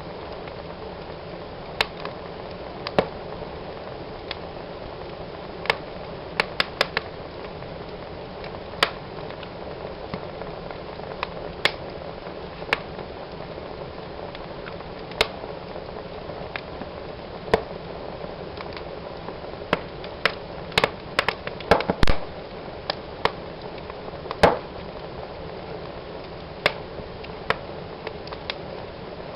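Wood fire burning in a fireplace: a steady hiss of flames with irregular sharp pops and crackles from the burning logs, a quick run of pops about twenty seconds in, followed shortly by one of the loudest pops.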